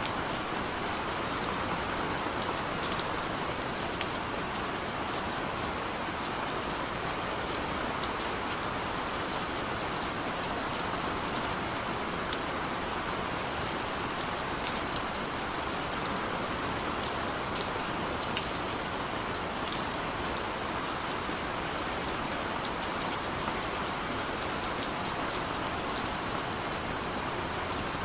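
Steady rain falling: an even hiss with many scattered sharper ticks of individual drops, one louder tick about three seconds in.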